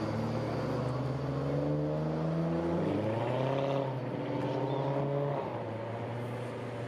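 Old American car's engine running at low revs, its pitch stepping up about three seconds in and the sound easing off a couple of seconds later.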